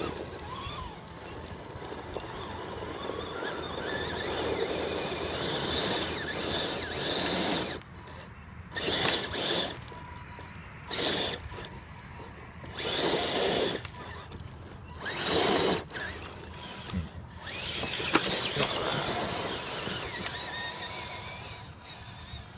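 Radio-controlled scale crawler truck's electric motor and geared drivetrain whining as it drives. It comes in several short surges of throttle in the middle of the stretch, with a sharp click near the end.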